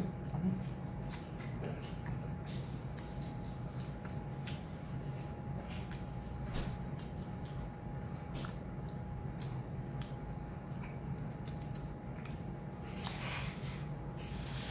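A person chewing and eating food close to the microphone: wet mouth sounds and scattered short clicks, over a steady low hum.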